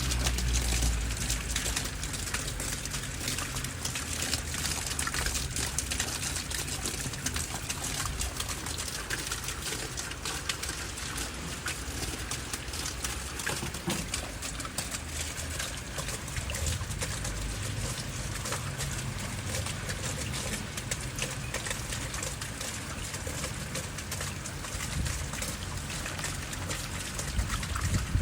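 Heavy rain pouring down in a steady hiss, dense with the patter of drops, with water trickling and running. A low rumble comes at the start and again near the end.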